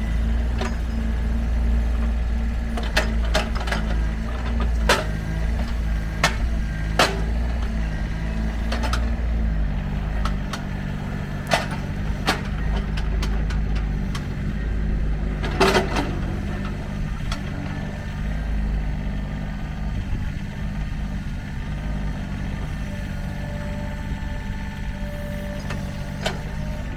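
Sany SY26U mini excavator's diesel engine running steadily, its note shifting about a third of the way in, with a dozen or so short sharp knocks scattered through.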